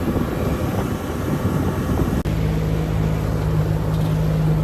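Boat motor running under way: a rough rumble for about two seconds, then an abrupt change to a steady, even engine hum.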